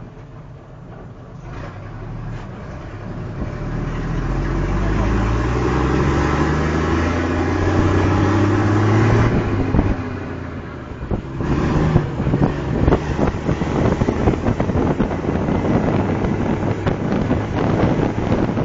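Fire truck engine pulling away and revving up, its pitch rising steadily for several seconds before easing off about halfway through. After that, gusty wind buffets the microphone over the running engine as the truck drives on.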